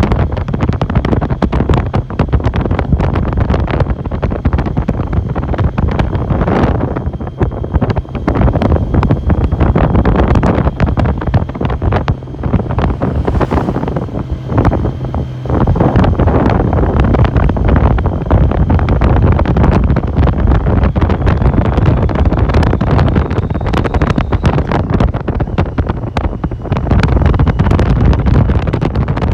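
Wind buffeting the microphone on a motorcycle at riding speed, gusting roughly throughout, over the low steady sound of the motorcycle's engine.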